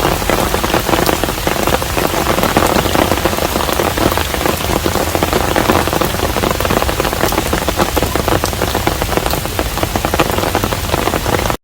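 Rain falling steadily on a hanok, a Korean traditional house: a dense, even hiss made up of many distinct close drops, unchanging throughout.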